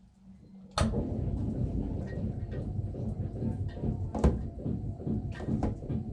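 A Vacuflush marine toilet's vacuum pump switching on about a second in and running steadily as it pulls vacuum after the system is powered up. There is a sharp knock about four seconds in.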